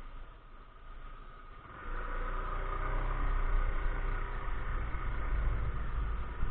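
SYM Joymax Z+ scooter running on the road, heard through a helmet-mounted microphone with wind noise; the engine and wind grow louder about two seconds in.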